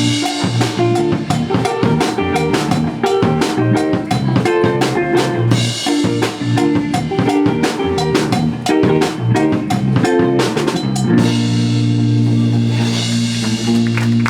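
Live indie rock band playing loudly, with busy drum-kit hits over guitar and bass, then letting a single chord ring out from about eleven seconds in as the song ends.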